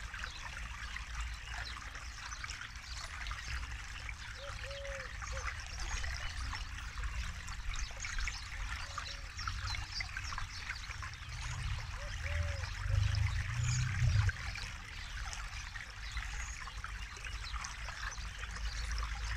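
Forest river flowing, a steady trickling, bubbling rush of water, with a low rumble that swells briefly a little past the middle.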